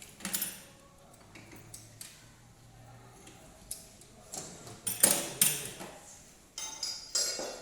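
Metal tools and engine parts clinking and knocking as they are handled during a cylinder head overhaul, with scattered sharp strikes, the loudest a few about five seconds in and another cluster near the end.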